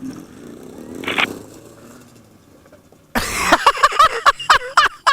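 A riderless dirt bike's engine running on with its throttle knocked open after the bike fell over, then loud yelling from about three seconds in.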